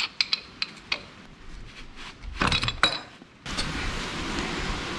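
Metal tools clinking and knocking against the oil drain plug of a 1978 Yamaha XS650 in a few sharp clicks, in an attempt to loosen a plug that turns out to be seized. About three and a half seconds in, a steady hiss starts.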